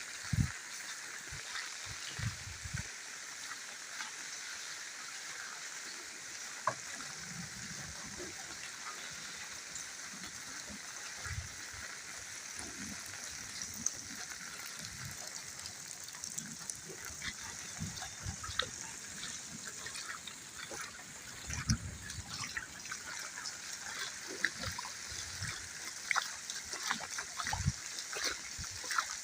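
Steady rain falling, a continuous hiss dotted with many small drips and splashes, with scattered low thumps throughout.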